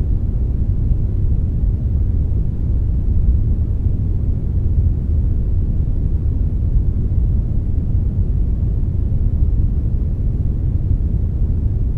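Steady synthetic 'brownish noise', a blend of brown and white noise: an even, deep hiss with most of its weight in the low end, unchanging throughout.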